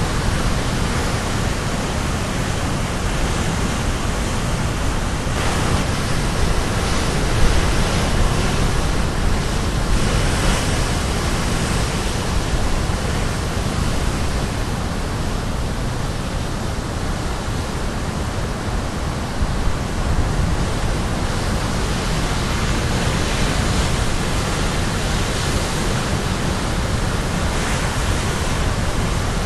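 Caribbean Sea waves crashing on the shore in a steady, loud wash of surf, swelling now and then as a bigger wave breaks.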